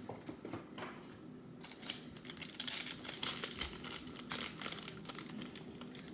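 A trading card pack's foil wrapper being torn open and crinkled by hand, the crackling starting about two seconds in and going on, preceded by a few light clicks of cards being handled.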